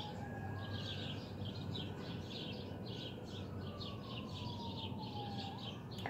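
A bird chirping over and over, about three short chirps a second, over a steady low hum. Under it a faint tone glides slowly down in pitch, like a distant siren, and swings back up near the end.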